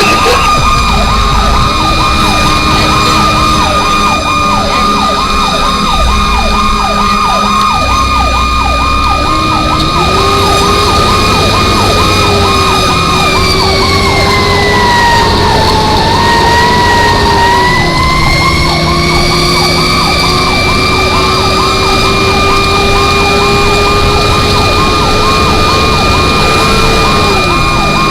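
Fire engine responding with its siren on: an electronic yelp warbling rapidly up and down, about three times a second, over a steady siren tone that sags in pitch about halfway through and then climbs back. The truck's engine runs underneath, its pitch rising as it pulls.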